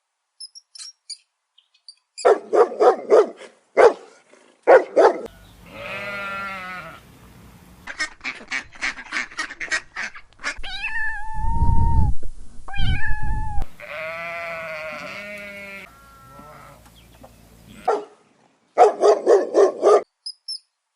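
A run of different animal calls one after another, changing abruptly: bursts of rapid pulsed calls, long wavering pitched calls, and a deep low rumble with gliding tones near the middle.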